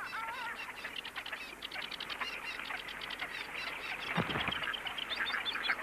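Small songbirds chirping and chattering: a dense, continuous run of quick high notes, with a brief soft knock about four seconds in.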